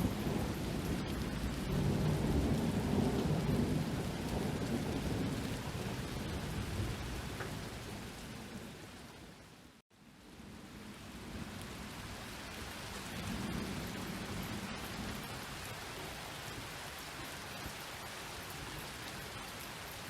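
Steady rain with rolling thunder, the rumble heaviest over the first few seconds and then fading. About ten seconds in the sound dips out for a moment, then the rain comes back with another softer rumble of thunder.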